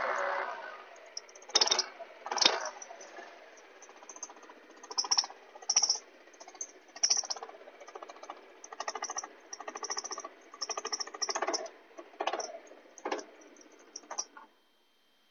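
139QMB 50cc four-stroke scooter engine running, revved in repeated short bursts, then cutting off near the end. The engine is one that the owner says squeaks and whistles, idles unsteadily and loses power with stumbles.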